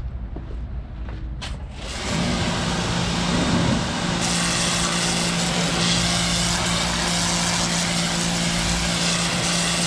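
A pressure washer starts about two seconds in and runs steadily, a constant motor hum under the hiss of the water jet, rinsing cleaner off a truck wheel and tyre.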